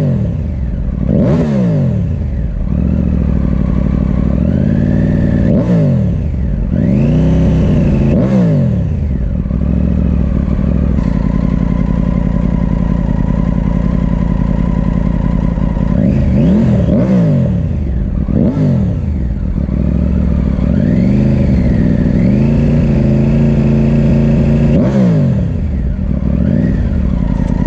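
Triumph Tiger 900 Rally Pro's three-cylinder engine being revved in repeated quick blips from idle while standing, each rev rising and falling back. It settles to a steady idle for several seconds midway, then the blips resume.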